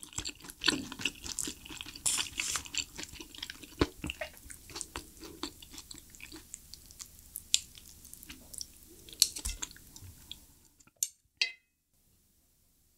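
Close-miked chewing of thin-skinned meat dumplings in spicy broth: dense, irregular wet clicks and smacks of the mouth and teeth. It stops about eleven seconds in, leaving near silence.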